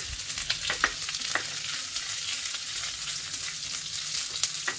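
Spices sizzling in hot oil for a tadka (tempering) of mustard seeds, grated ginger, curry leaves and green and dry red chillies. It is a steady sizzle with a few sharp pops, most of them in the first second and a half and one near the end.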